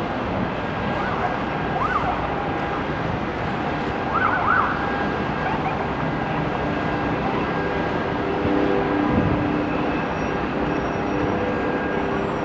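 Distant emergency-vehicle sirens over a steady outdoor rumble, with a few short high chirps about two and four seconds in.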